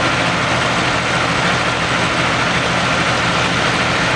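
A heavy engine idling steadily under a constant loud hiss.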